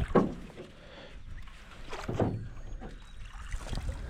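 Small fishing boat on the water with a low steady rumble, and two brief soft noises about a quarter second and two seconds in.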